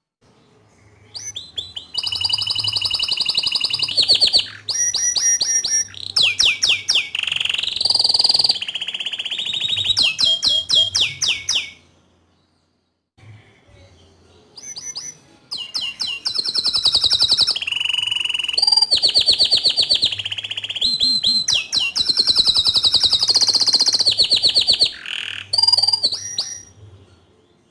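Green domestic canary singing two long song phrases of fast trills and rolls mixed with held whistled notes, with a short pause about halfway.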